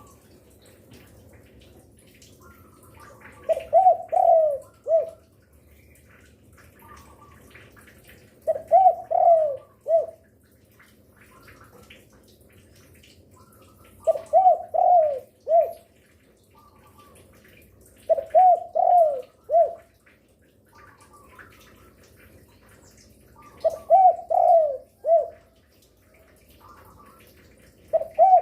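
A derkuku (Sunda collared dove) cooing in full song. It gives a phrase of three or four falling coos, the last short and set apart, about every five seconds, five times over, with a sixth phrase beginning at the end.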